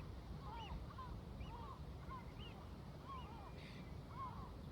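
A flock of seagulls calling, many short arched cries overlapping at about two a second, over a steady low rumble of waves and distant traffic.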